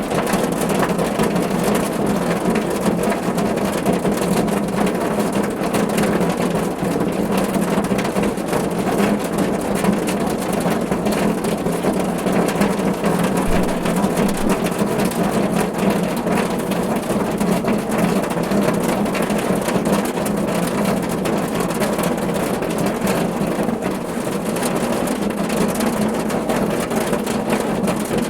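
Steady rain falling on a car's roof: a dense, even patter of drops with a constant low rumble underneath.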